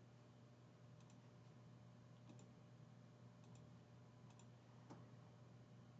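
Near silence: room tone with a steady low hum and five faint clicks, roughly one a second.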